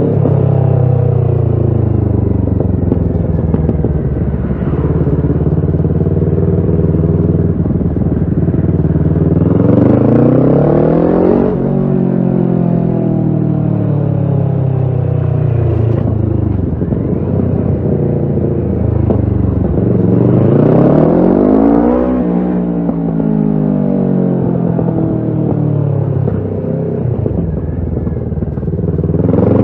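Kawasaki Ninja 650 parallel-twin engine running through a Shark SRC-4 full aftermarket exhaust while riding. The revs fall away slowly for long stretches, then climb hard twice, each time cutting off with a sudden drop in pitch. A third climb starts near the end.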